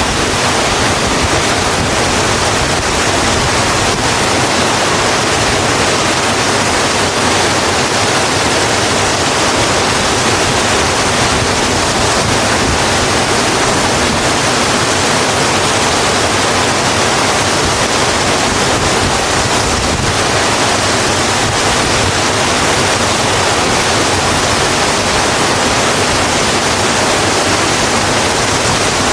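Steady, dense rain falling on a road: an even, unbroken wash of rain noise.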